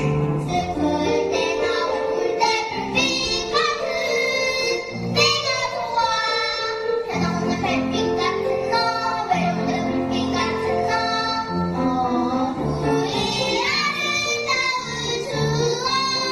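A child singing a Korean children's song over instrumental accompaniment, the voice sliding between held notes.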